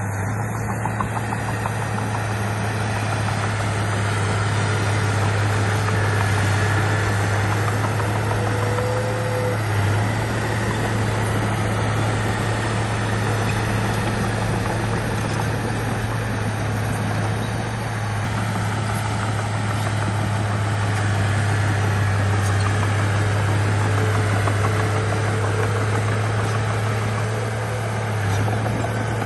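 Bulldozer's diesel engine running steadily with a strong low hum, swelling slightly in level now and then.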